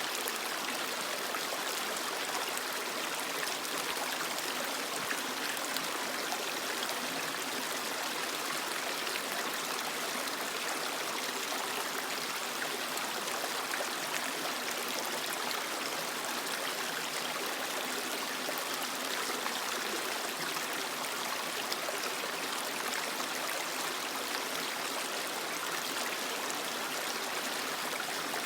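A creek's water running steadily over rocks, a constant rushing with trickling and gurgling, unchanging throughout.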